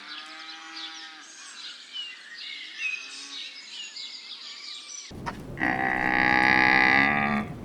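Birds chirping faintly, then, after an abrupt change about five seconds in, a single long, loud moo from a bovine lasting about two seconds.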